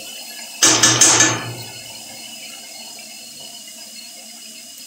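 Shredded cabbage frying in oil in a wok, a steady soft sizzle. About half a second in comes a loud scraping clatter of several sharp hits close together, lasting about a second.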